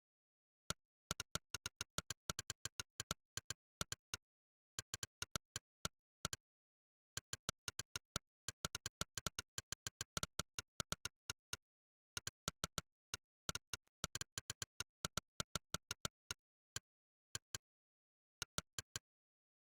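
Monkeytype's synthesized 'click' keypress sound, one sharp click per keystroke as someone types quickly. The clicks come several a second in runs of typing, with short pauses between runs and dead silence between clicks.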